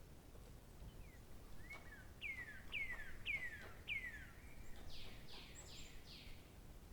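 A songbird singing one phrase: a short run of clear whistled notes, each sliding downward, about two a second, ending in four brighter, slightly higher slurred notes. Faint outdoor background hiss underneath.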